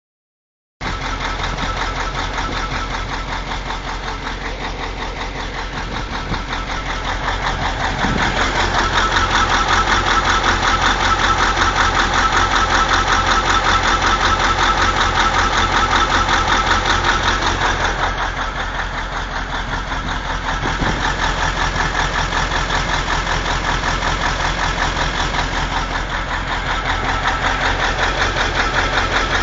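YaMZ-7511 V8 turbodiesel running, carrying an unidentified extraneous noise that the owner is asking about. It grows louder for about ten seconds in the middle, then settles back.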